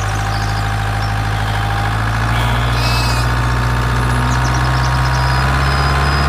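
Steady, low engine-like drone of the miniature RC construction machinery running, even in pitch and slowly growing a little louder.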